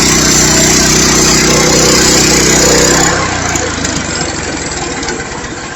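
Portable bandsaw sawmill's engine running steadily while sawing through the log, then easing off about three seconds in and quietening.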